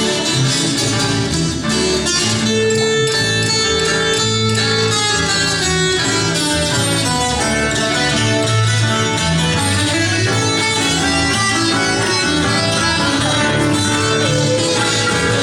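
Acoustic guitars and other plucked strings playing an instrumental break between sung verses of a sertanejo caipira song, with a steady strummed rhythm and held melody notes.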